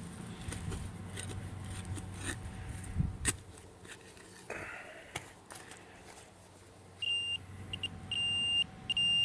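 Metal detector giving a steady high beep, switching on and off in short and longer pulses over the last couple of seconds: the tone of it sounding off on a buried metal target. Before that come a few scrapes and clicks of digging.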